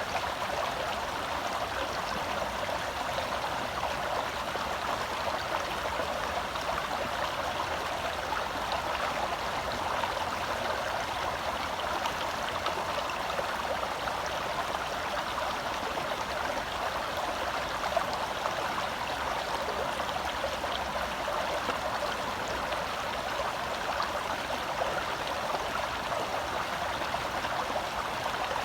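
A shallow forest stream flowing and splashing steadily over rocks, a continuous even rush of water.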